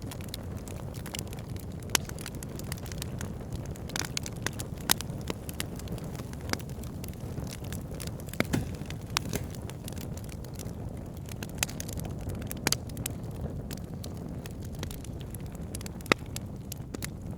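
Burning firewood crackling and popping at irregular moments over a steady low rush of the flames, with a few sharper, louder pops.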